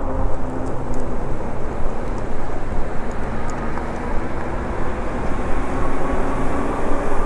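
Riding an electric bike: heavy wind rumble on the microphone mixed with tyre and road noise, and the steady whine of the rear hub motor, which drops away about half a second in and comes back near the end.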